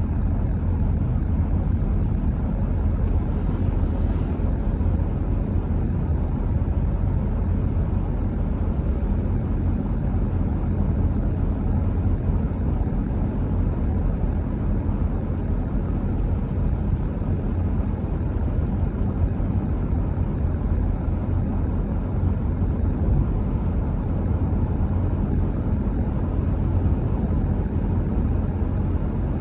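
Car driving steadily on a road: a constant low rumble of tyres and engine that does not change.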